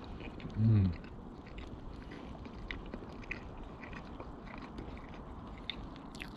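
A person chewing food, with faint scattered crunchy clicks. A short, low hum of the voice comes about half a second in.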